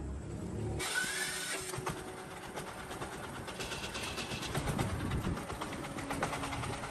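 Rapid mechanical clattering that starts abruptly about a second in, with a brief rising whine at its start.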